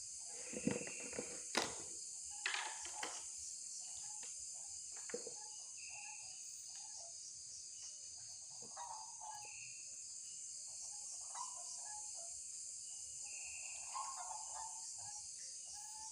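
Night chorus of crickets and other insects: a steady high-pitched drone with a pulsing edge to it. A few sharp knocks come in the first three seconds, and a short higher call repeats every three to four seconds.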